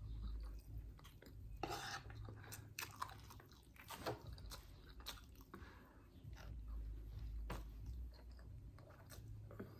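A person chewing food with the mouth close to the microphone, with scattered small clicks from the mouth.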